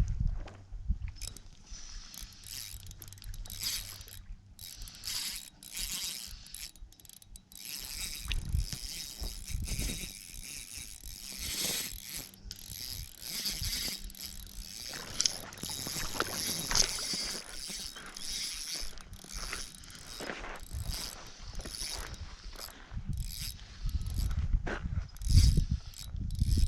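Fishing reel being worked against a hooked trout on light line: irregular mechanical clicking and whirring of the reel as it is cranked and its drag gives line. There are several louder low thumps near the end.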